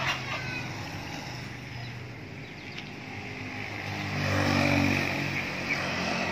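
Suzuki A100's single-cylinder two-stroke engine idling steadily, growing louder for about a second around four seconds in.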